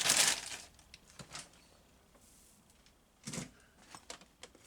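A brief rustle at the start, then quiet with a short knock-like burst about three seconds in and a few small clicks near the end.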